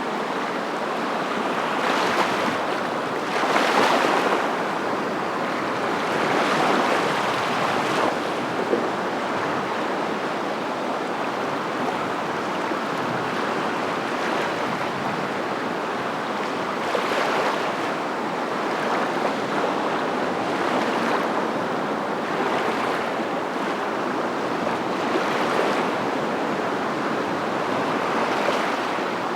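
Ocean surf: a continuous rush of water noise that swells as a wave breaks every few seconds.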